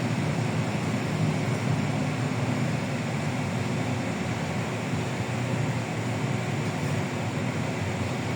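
LiAZ-6213.65 articulated diesel city bus under way, heard from inside: a steady low engine and road drone with a faint constant hum.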